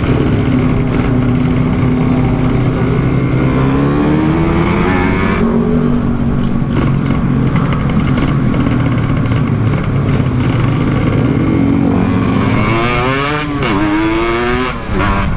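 Kawasaki Ninja 150 two-stroke single-cylinder engine in a motorcycle being ridden on the road. Its note climbs as the rider accelerates, drops sharply about five and a half seconds in as he shifts gear, then climbs again near the end with two more quick drops at the shifts.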